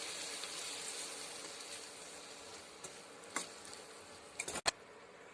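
Onions and ginger-garlic paste sizzling in oil in a pan, a soft even hiss that slowly fades, with a few short clicks or knocks partway through.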